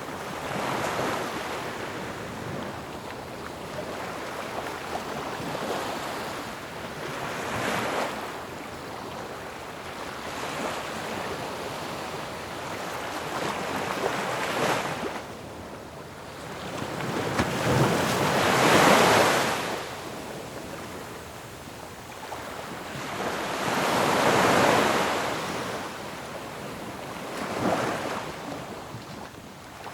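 Ocean waves breaking on a shore, a steady wash of surf with a swell every few seconds; the largest waves break about two-thirds of the way through and again shortly after.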